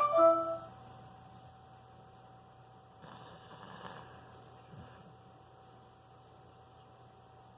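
A sleeping dog's soft breathing, with one faint snore-like breath about three seconds in, over a steady electrical hum. A short squeaky pitched sound at the very start is the loudest thing heard.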